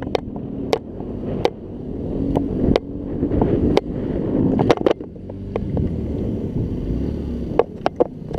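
Rumbling wind and ride noise buffeting the microphone of a riding scooter, with scattered sharp clicks and knocks throughout.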